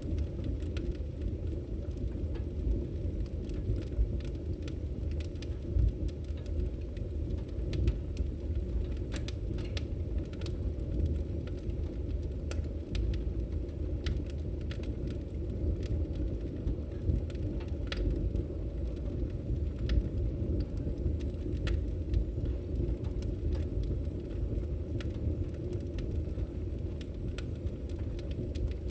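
Fireplace fire crackling: many irregular sharp pops and snaps over a steady low rumble of the burning fire.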